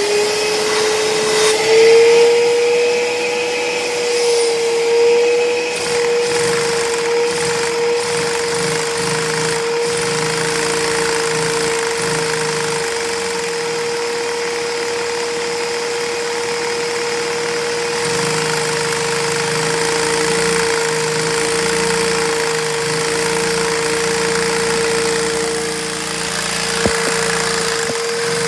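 A vacuum cleaner motor runs with a steady high whine, powering a Lego inline-two vacuum engine whose plastic pistons and flywheel rattle along underneath. There is one sharp click near the end.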